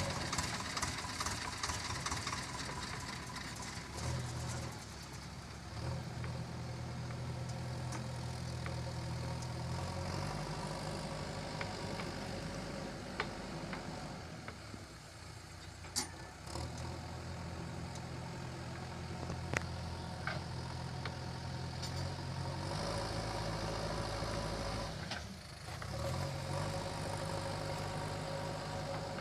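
JCB 3DX backhoe loader's diesel engine running, its note stepping up and down repeatedly as load comes on and eases off while it works. A couple of sharp knocks sound in the middle.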